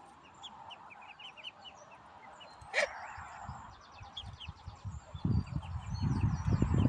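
Birds chirping in a run of short, high peeps, with one louder call about three seconds in. From about five seconds in, a low rumbling noise grows louder beneath them.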